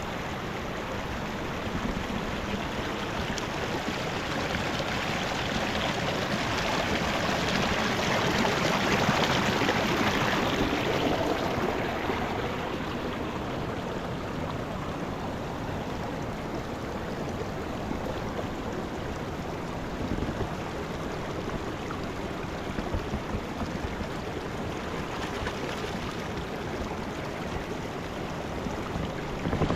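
Rushing mountain river: a steady wash of flowing water that swells louder for several seconds in the middle.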